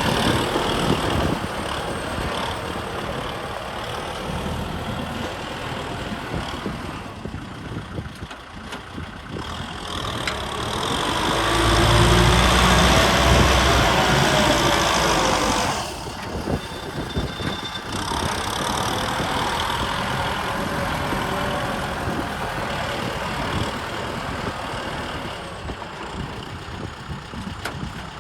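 Kubota M6040 SU tractor's diesel engine running. It grows louder to a peak a little before halfway through, with a deeper rumble, then drops off suddenly and runs on steadily.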